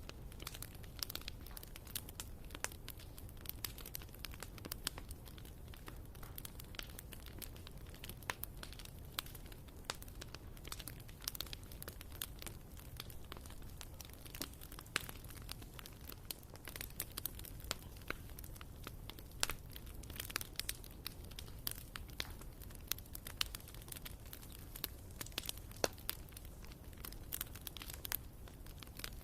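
Wood fire burning in a fireplace, the firewood crackling with frequent irregular sharp pops over a low steady rumble.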